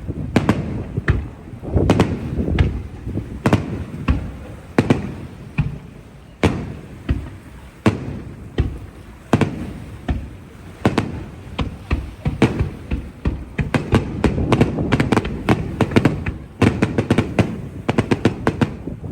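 Aerial fireworks bursting: a string of sharp bangs about every half second, each with a rolling echo, growing into a dense rapid crackling barrage over the last few seconds.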